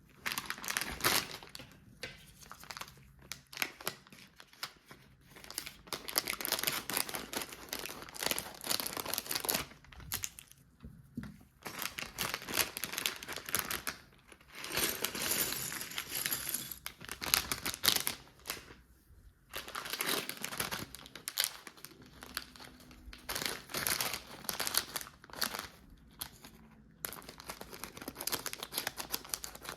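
Plastic LEGO parts bags crinkling as they are handled and torn open, in irregular bursts of crackling noise.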